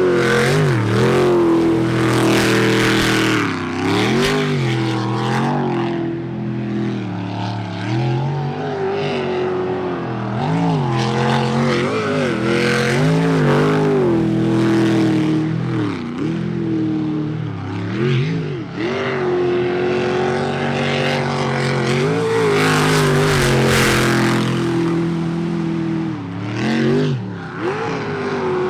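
Unlimited-class jet sprint boat's engine running hard through a timed course run. Its pitch dips and climbs again every second or two as the throttle is worked through the turns.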